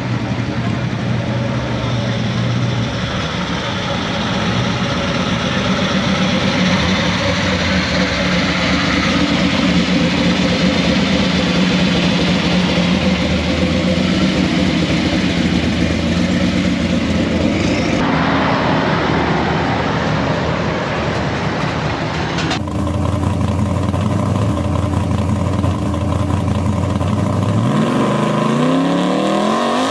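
Car engines idling with a steady low note, heard in several short takes that change abruptly. Near the end an engine revs, its pitch rising and falling.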